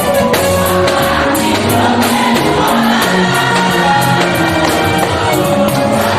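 A church choir singing gospel music with band accompaniment and a steady percussion beat.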